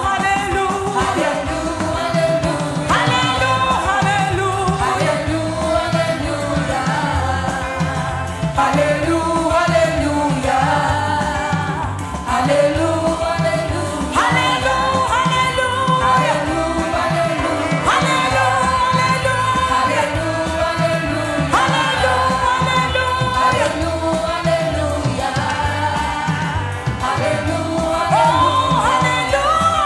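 Gospel worship music: voices singing long held phrases over a live band with a steady beat.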